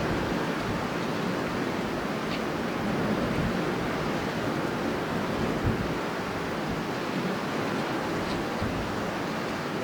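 Strong wind blowing steadily in a dense rushing roar, with low gusts swelling and easing.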